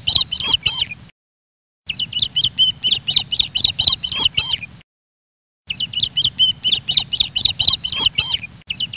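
Recorded bird chirping, a quick run of high chirps that plays as a loop of about three seconds, with two short dead-silent gaps between repeats, about a second in and about five seconds in.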